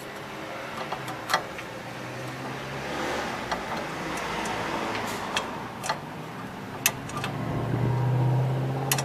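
Light metallic clicks and taps, several seconds apart, as a Schrader valve core is put back into a refrigeration access valve. A steady low machine hum runs underneath and grows louder near the end.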